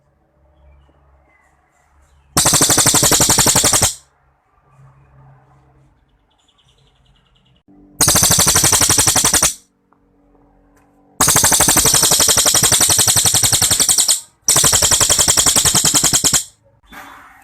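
Cililin songbird singing long, rapid-fire rattling trills: four high-pitched bursts of fast repeated notes, each lasting one and a half to three seconds, with short pauses between. This is the long 'tembakan' (shot) song.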